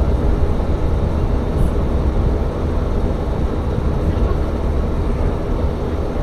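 Tsugaru Railway diesel railcar running along the line: a steady, loud low rumble of engine and wheels on rail.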